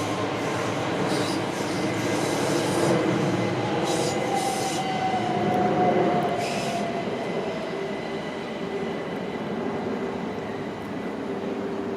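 Electric multiple-unit train running through the platforms: a steady rumble with a motor whine that falls slowly in pitch midway, and short hissing squeals from the wheels in the first half.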